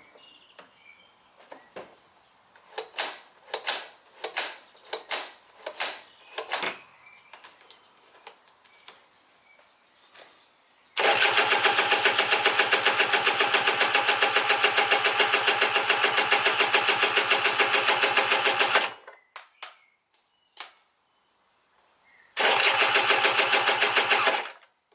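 Aprilia RS 125's Rotax 122 single-cylinder two-stroke engine being turned over to start after its rebuild: a few light clicks, then a loud, fast, even pulsing for about eight seconds that cuts off suddenly, a few more clicks, and a second two-second burst near the end.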